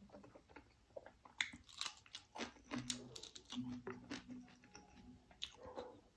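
Close-miked chewing of a mouthful of rice and chicken curry: many short wet smacks and crunchy clicks from the mouth, with a few short low hums in between.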